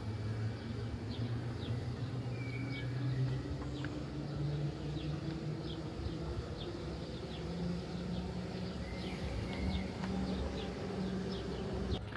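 Outdoor ambience: small birds chirping in short, scattered calls over a low hum that rises slowly in pitch.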